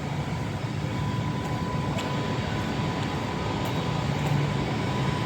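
Class 390 Pendolino electric train standing at the platform ready to depart: a steady rumble and hiss, with a thin, steady high tone held through most of it.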